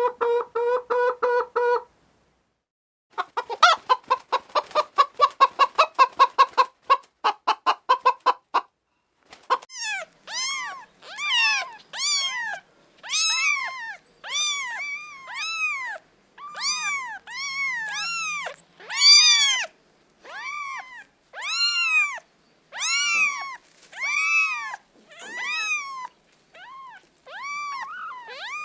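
A run of rapid clucking calls in two short bursts. From about a third of the way in come kittens mewing: short rising-and-falling mews, repeated about once a second.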